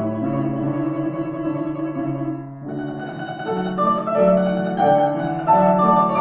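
Instrumental music played on a plucked string instrument, with a short dip in loudness about two and a half seconds in before a higher melody enters.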